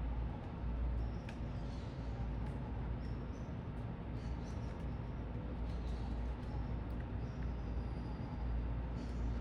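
Steady low rumble of city traffic, with birds giving short high chirps several times over it.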